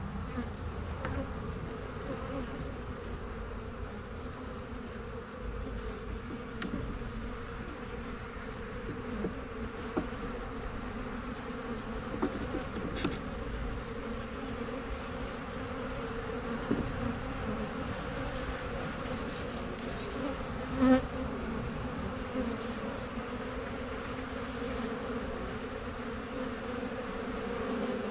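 Honey bees buzzing in a steady hum around a small two-frame colony that is being robbed by other bees. A few faint clicks, and one brief louder buzz about three-quarters of the way through.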